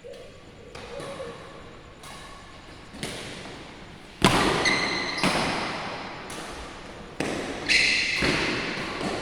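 Badminton rackets striking a shuttlecock in a rally, sharp hits about once a second that echo through a large sports hall, the loudest about four seconds in.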